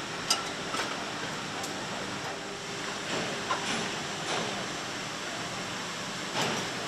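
Factory-floor machinery noise: a steady hiss and hum, with a few sharp clicks and knocks scattered through it.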